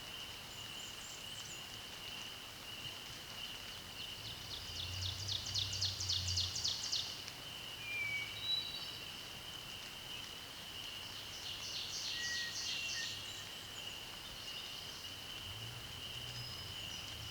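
Outdoor nature ambience: a steady high-pitched chorus of frogs or insects, over which a songbird twice sings a rapid trill of about five notes a second, each lasting two to three seconds, with a few short chirps between.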